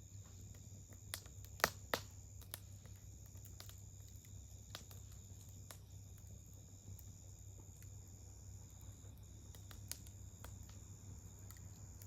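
Wood campfire crackling faintly, with scattered sharp pops, a few louder ones a second or two in, over a steady low hum.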